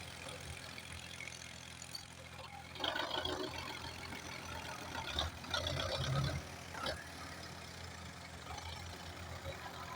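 Belarus 510.1 tractor's diesel engine running steadily, louder for a few seconds around the middle.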